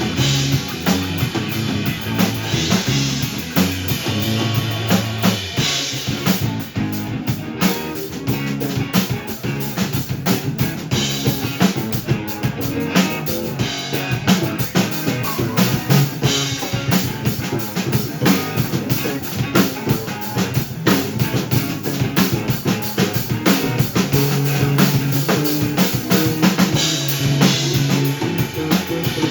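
Rock band playing an original song, the drum kit to the fore with dense bass-drum and snare hits over sustained low bass notes.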